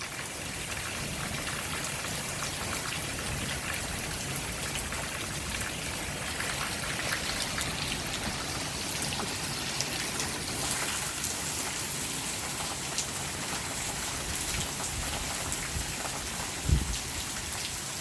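Steady rain falling, with many small sharp drop ticks on a nearby surface. A short low thump comes near the end.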